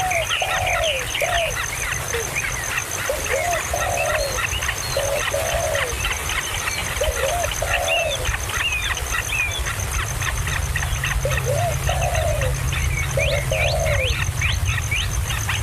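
Birds calling: a dense chatter of short high chirps, with a lower, arched call repeated in short runs every few seconds, over a steady low rumble.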